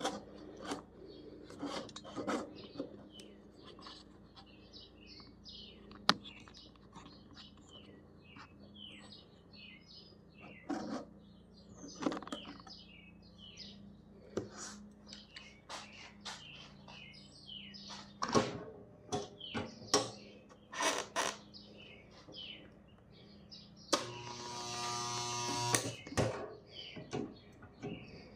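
Scattered clicks and knocks of work on the panel, with birds chirping in the background. About 24 seconds in, the Harbor Freight tack welder buzzes for about two seconds as it tacks the steel reinforcing band to the rusted tractor sheet metal.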